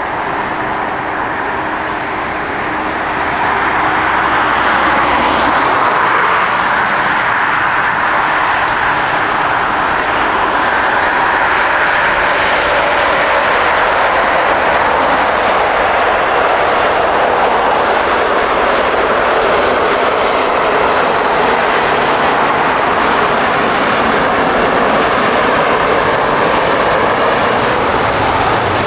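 Airbus A350-900's Rolls-Royce Trent XWB turbofan engines on landing: a steady jet rush that swells about four seconds in and stays loud.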